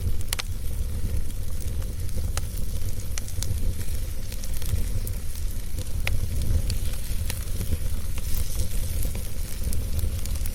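A fire burning, with a steady low roar and frequent sharp crackles, a few of them louder snaps.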